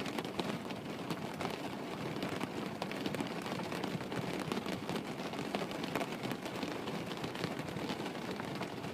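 Steady rain, an even hiss with the fine pattering of many drops.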